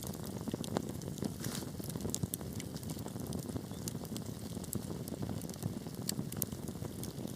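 Wood fire crackling in a fireplace: a steady low rumble of burning wood with many sharp pops and snaps, several a second.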